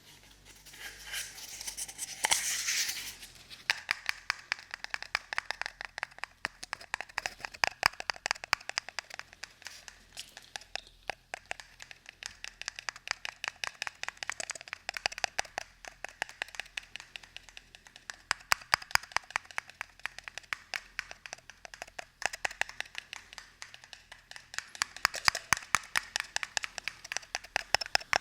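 Rapid light tapping close to the microphone, many small taps a second, after a brief rustling scrape at the start.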